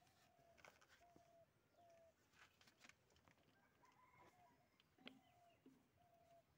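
Near silence with faint bird calls: short, flat, repeated notes about once a second, and a few faint clicks.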